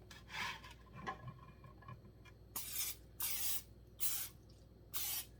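Aerosol cooking spray released in four short hissing bursts of about half a second each, coating the inside of a microwave cake pan, after a few faint handling noises.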